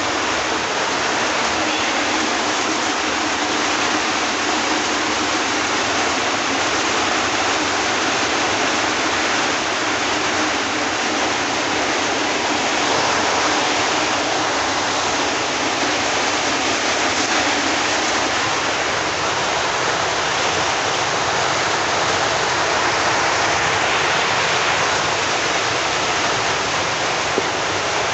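Heavy rain pouring down steadily, with rainwater running.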